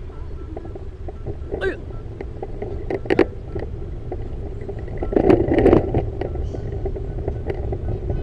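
Steady low rumble of wind and road noise from a bicycle ride, with scattered clicks and knocks. The loudest come about three seconds in and a louder rattling cluster comes around five to six seconds.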